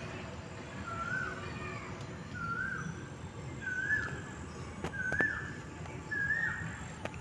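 A bird calling over and over: the same short note, rising then falling, about once every second, six times, over a steady outdoor rustle. A couple of faint clicks come about five seconds in.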